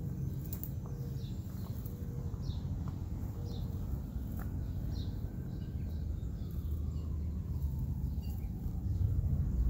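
A bird calling outdoors: short, high, falling chirps about once a second, over a low steady rumble of background noise.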